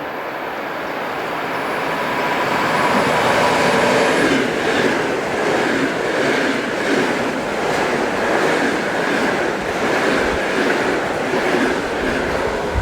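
ЭП2Д electric multiple unit suburban train approaching and running past. It grows louder over the first few seconds, then holds a steady rumble with its wheels clicking over the rail joints.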